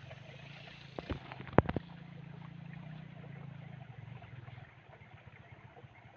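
A low, steady engine hum, with a quick cluster of sharp clicks about a second in and a single louder crack half a second later.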